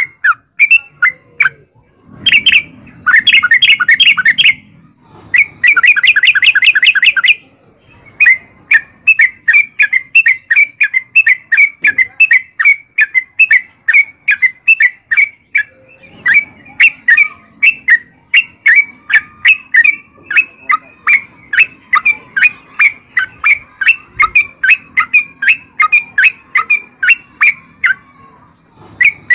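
Yellow-vented bulbul (trucukan) song: two fast, rapid-fire trilled bursts, then a long run of short repeated chirps at about three a second, and another fast burst right at the end.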